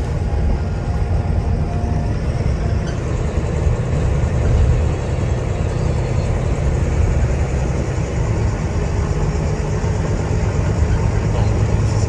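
Volvo B9TL Wright Eclipse Gemini 2 double-decker bus's diesel engine running steadily under way, a deep rumble heard from inside the passenger saloon together with road noise.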